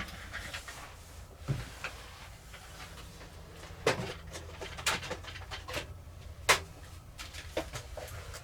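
Scattered light clicks and taps of small tools and plastic drone parts being handled on a workbench, with a few sharper knocks in the second half, over a faint steady low hum.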